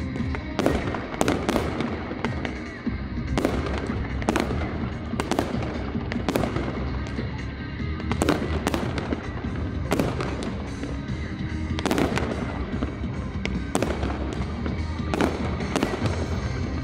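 Fireworks display: aerial shells bursting in sharp bangs about once a second, each with an echoing tail, over music from the show's sound system.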